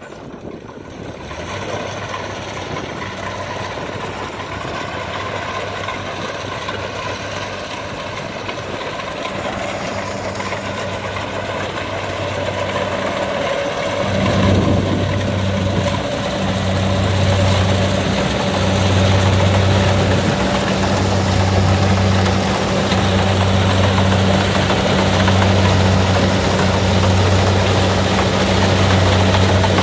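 Diesel engine of a Kubota DC70 combine harvester running under load, a steady low drone that grows louder about halfway through, where it takes on a slow, regular throb.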